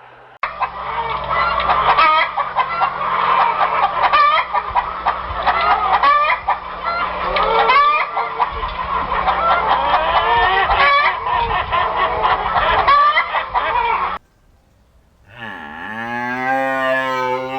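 A poultry flock, chickens and geese, clucking and honking over one another in a dense, continuous din that cuts off abruptly. After a short pause, a cow begins a long, low moo near the end.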